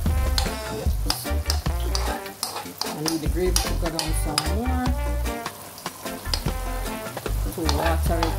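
Food sizzling as it fries in a pot, with a spoon stirring and knocking against the pot. Background music with a bass line plays under it.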